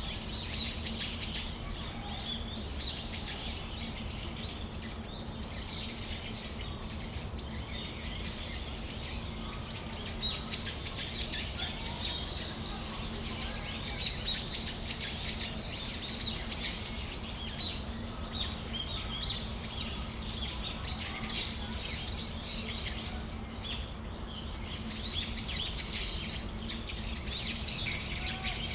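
Brown-eared bulbuls calling: many short, sharp chirps from several birds overlapping, busiest in the middle and again near the end. A steady low hum and rumble runs underneath.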